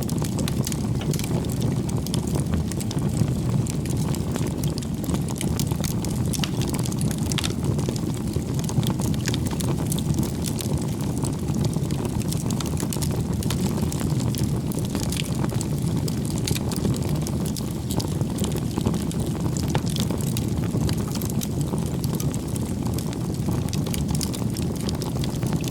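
Bonfire of firewood burning: a steady low rush from the flames with frequent small crackles and pops from the burning wood.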